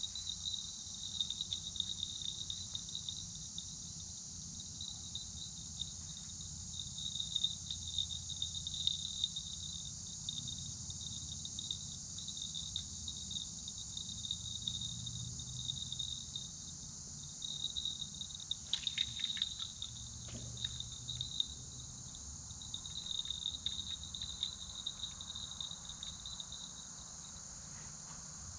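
Steady chorus of insects: a continuous high-pitched trill that holds without a break, with a few short clicks about two-thirds of the way in.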